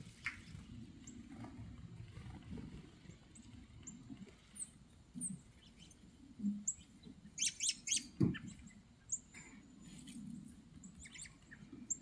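Small songbirds chirping: short, high, scattered calls that bunch into a quick flurry about two-thirds of the way through, over a faint low background rumble.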